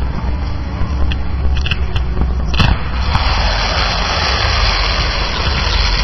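Fireworks display going off: a heavy low rumble with a few sharp cracks, then from about three seconds in a dense crackling hiss.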